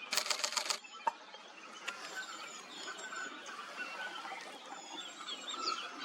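A camera shutter firing a rapid burst of about half a dozen clicks at the start, then a single click. After that, small birds chirp and whistle in short, high, gliding calls.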